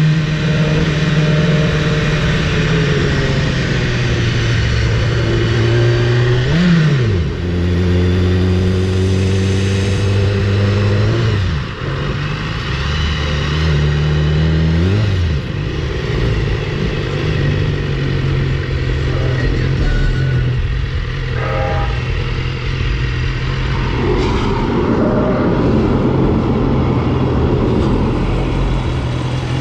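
BMW S1000RR's inline-four engine running under way with wind rush. Its pitch rises and drops sharply a few times in the first half, as with throttle changes and gear shifts, then holds steady.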